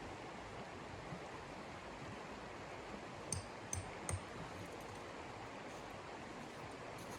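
Steady rushing noise, with three quick sharp clicks a little over three seconds in.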